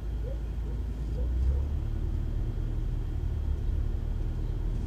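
A vehicle engine idling, heard as a steady low rumble.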